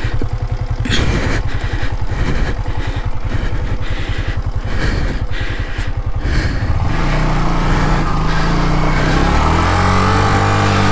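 Yamaha MT-15's single-cylinder engine running at low revs with a rapid, even firing pulse, then revving up about seven seconds in and holding a higher, rising pitch.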